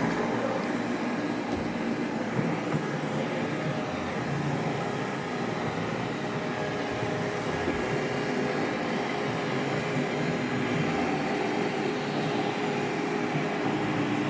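Robot vacuum cleaner running steadily, its fan and brushes humming as it cleans a carpet.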